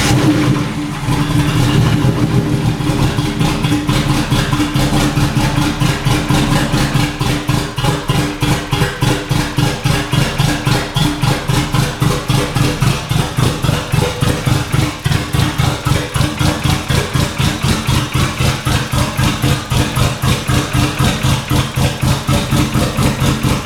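Twin-turbo V6 engine of a Dodge Stealth / Mitsubishi 3000GT VR-4 idling steadily with an even, rapid pulse, on its first start after a swap from a non-turbo front-drive setup to twin-turbo all-wheel drive.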